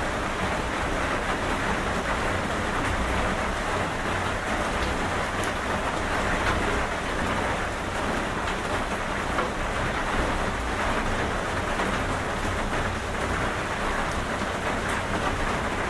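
Steady heavy rain falling, an even hiss with faint scattered drop ticks and a low rumble underneath.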